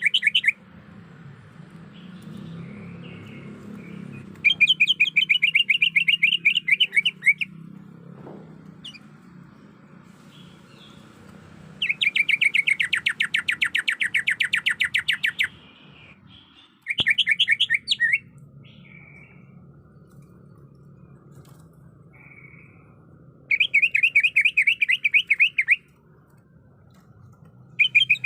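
Greater green leafbird (cucak ijo) calling in repeated bursts of fast, rapidly repeated high notes, each run lasting one to four seconds with short pauses between. This is a female's call to attract a male, played as a lure to set males singing. A faint low hum runs underneath.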